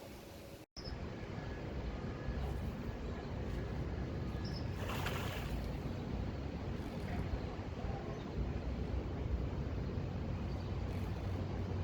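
Steady low engine rumble with a held low hum, after a brief dropout just under a second in.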